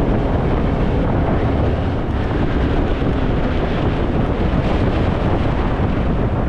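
Steady wind noise rushing over the microphone on a moving motorcycle, with a Harley-Davidson Fat Boy's V-twin engine running underneath.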